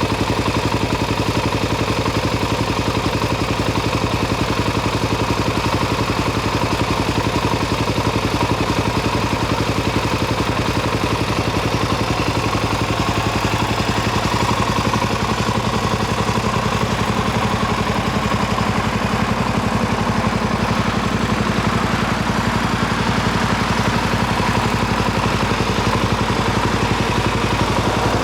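2019 Suzuki DR-Z400SM's single-cylinder four-stroke engine idling steadily through a Yoshimura full exhaust system.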